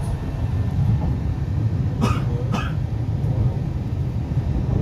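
Steady low rumble of an MTR East Rail Line R-Train electric train running, heard from inside the car, with two short coughs about two seconds in.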